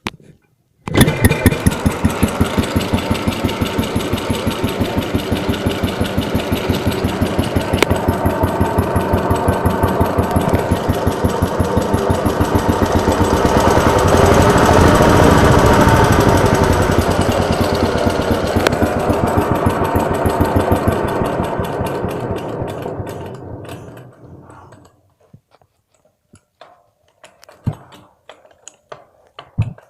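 L-3/2 small engine starting up: it catches abruptly about a second in and runs with rapid, even firing strokes, getting louder toward the middle, then dies away about three-quarters of the way through. A few faint knocks follow.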